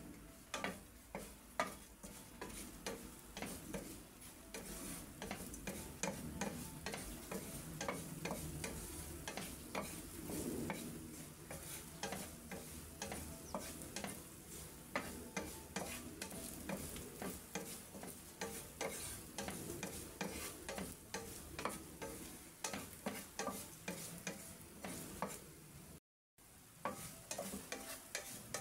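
Dried tiny shrimp (hibi) frying in oil in a nonstick pan, sizzling and crackling, with a wooden spatula scraping and tapping against the pan as it stirs them. The sound cuts out for a moment near the end.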